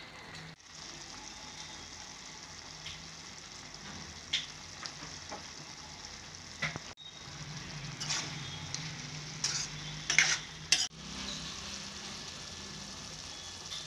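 Chicken curry sizzling and simmering in a pan, a steady hiss, while a spoon scrapes and clicks against the pan now and then, most often in the second half. The sound drops out briefly twice.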